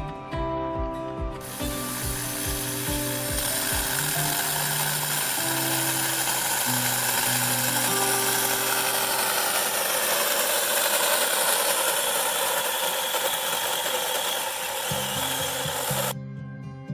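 SAKER mini electric chainsaw running and cutting through branches, a steady buzzing chain noise that starts about a second and a half in and cuts off sharply near the end.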